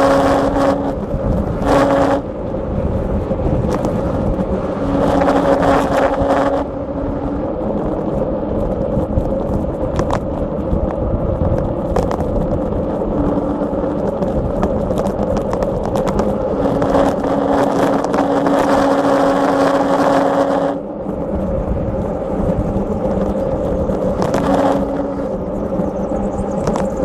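Mountain bike descending a rough woodland trail: a continuous rumble and rattle of tyres and bike over dirt and stones, with several longer stretches of louder rushing noise.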